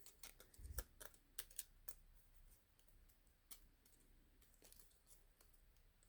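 Faint, scattered clicks and light taps of cardstock die-cut pieces being handled and pressed into place, with one soft thump a little under a second in.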